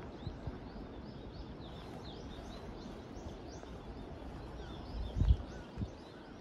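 A small bird chirps repeatedly, a few short high notes a second, over steady outdoor noise with a low rumble of wind on the microphone. A loud low thump comes about five seconds in, with a smaller one shortly after.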